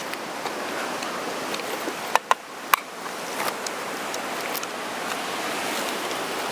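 Steady wind rushing on the microphone, with three sharp clicks a little over two seconds in.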